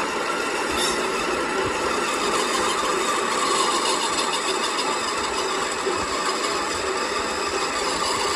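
A machine running steadily with an even mechanical drone and a few faint steady tones.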